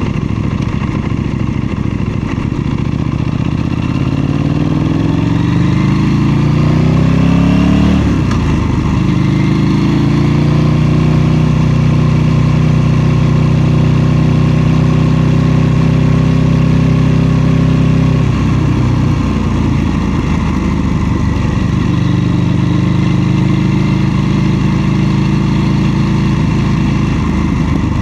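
KTM 790 Duke's parallel-twin engine under way: the revs climb for a few seconds, drop sharply about eight seconds in, then hold steady for about ten seconds before the throttle changes again and the engine runs on at a lower, less even note.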